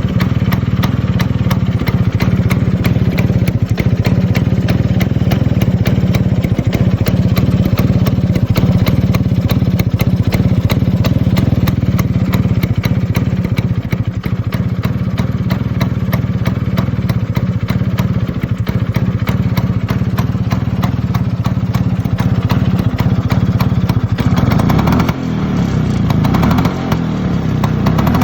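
Vespa PX's single-cylinder two-stroke engine idling steadily through a Polini Big Box exhaust, with the engine note rising and falling unevenly near the end.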